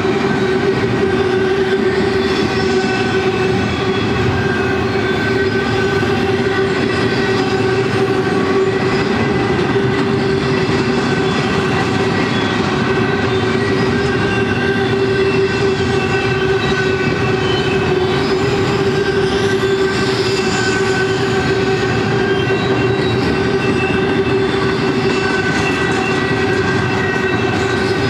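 Double-stack intermodal well cars of a freight train rolling steadily past, a continuous rumble of wheels on rail with a steady ringing tone held above it.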